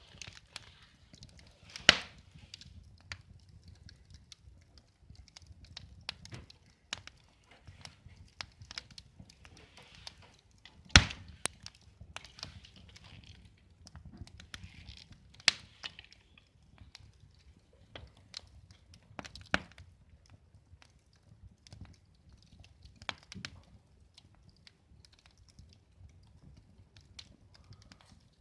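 Scattered clicks and knocks with brief rustling, broken by a few sharp, louder knocks: about five, spread irregularly.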